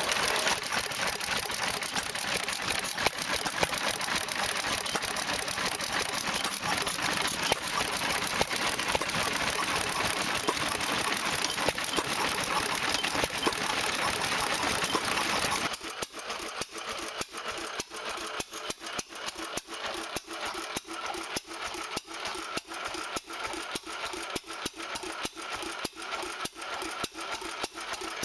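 Small antique stationary gas engines running. For the first half there is a dense, fast mechanical clatter; about halfway through it switches suddenly to a quieter engine beating with slower, evenly spaced ticks.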